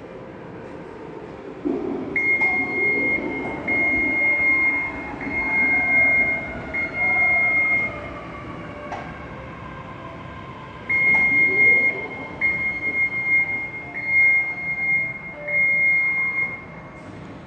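Escalator warning buzzer sounding a steady high tone in long beeps of just over a second each: four in a row about two seconds in, then four more about eleven seconds in.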